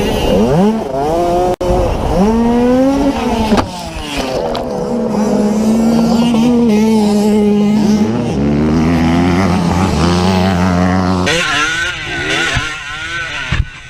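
Dirt bike engines revving, their pitch climbing and dropping with the throttle, with a steadier held stretch in the middle. The sound breaks off and changes abruptly a few times.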